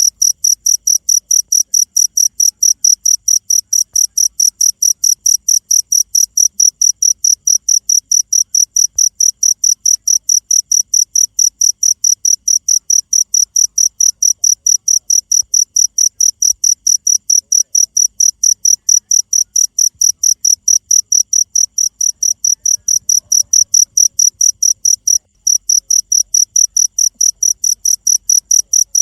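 Cricket chirping in a fast, perfectly even pulse of high-pitched chirps, about three to four a second, with one brief break about 25 seconds in.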